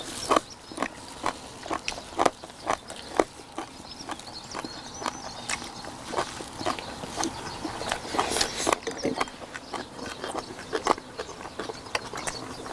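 Several people chewing and smacking on boiled pig's feet (jokbal), a string of irregular wet smacks and clicks close to the microphone.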